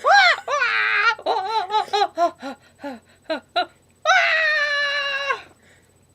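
High-pitched vocal cries from a silly falsetto voice. A short rising cry comes first, then a run of short yelps, laugh-like and falling in pitch. Near the end comes one long, held shriek of over a second.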